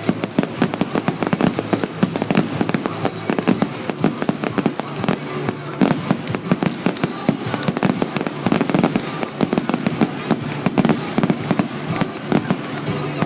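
Fireworks going off in a dense, continuous crackle of many rapid small bangs and pops, with no pause.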